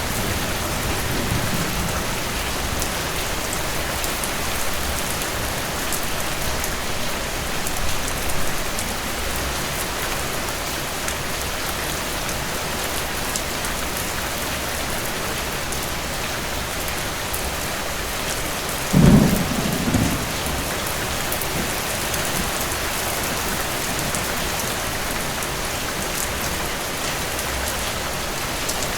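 Steady rain falling throughout, with a short burst of thunder rumbling about two-thirds of the way in and a fainter rumble earlier.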